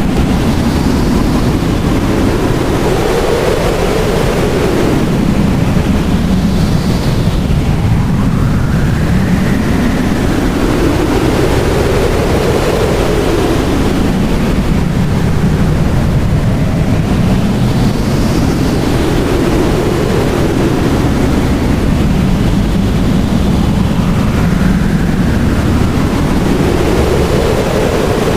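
Blizzard wind blowing hard and without a break, a howl whose pitch rises and falls in slow gusts every few seconds.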